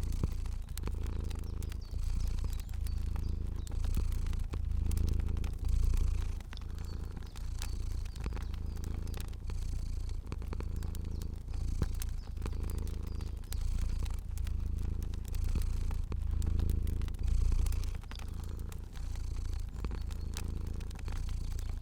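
A cat purring steadily, each swell and ease following its breathing about every second and a half. Small crackling pops from a fire are scattered throughout.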